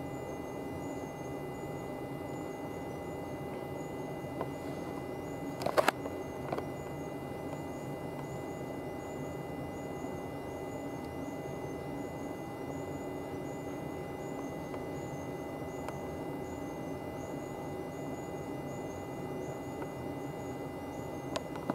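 Steady electrical hum with a few fixed whining tones from a stationary electric train's onboard equipment, heard inside the passenger car. A short burst of sharp clicks comes about six seconds in.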